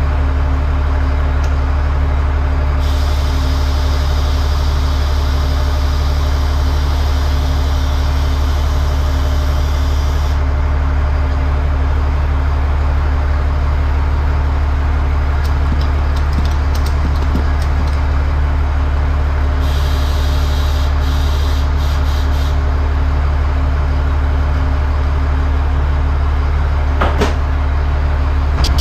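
Air compressor running steadily with a deep hum, while air hisses in two longer stretches, probably air going into the tire to seat its bead. There are a few clicks near the end.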